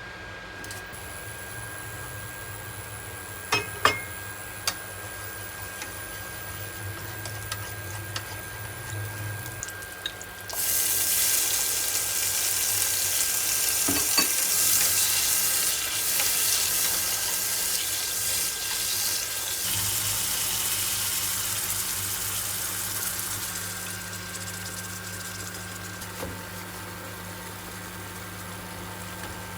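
Tomato sauce cooking in hot oil in a pan: a sizzle starts suddenly about ten seconds in, stays loud, then slowly dies down near the end. A few sharp knocks come before it.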